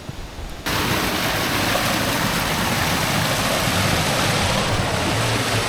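Waterfall's rushing water, a steady even noise that cuts in abruptly within the first second.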